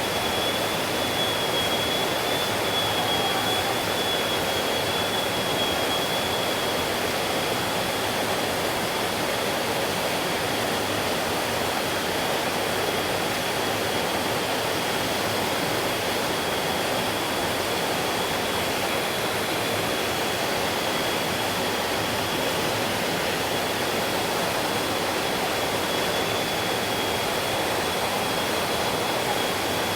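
Stream water flowing, a steady, dense rushing noise with no breaks, with a faint high steady tone running over it.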